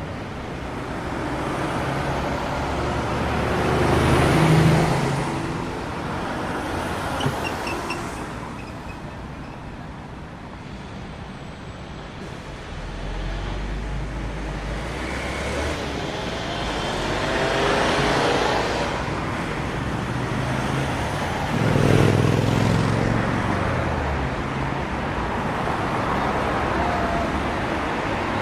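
Road traffic: a steady hum of road noise with several vehicles passing, each swelling up and fading away.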